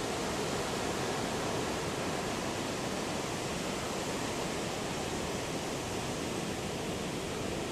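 Steady roar of heavy surf: big waves breaking and washing on the beach, driven by the swell ahead of an approaching typhoon.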